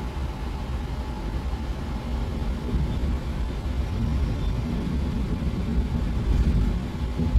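Train running on the track, heard from inside the passenger car as a steady low rumble. A faint hum joins about two and a half seconds in.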